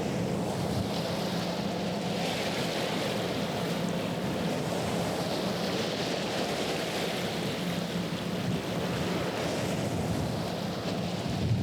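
Steady low drone of a passing ship's engine, with water washing and surging against the shore twice, and wind buffeting the microphone.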